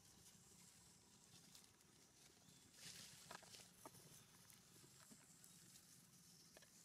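Near silence: faint background hum and hiss, with a brief rustle and a few soft clicks about three seconds in.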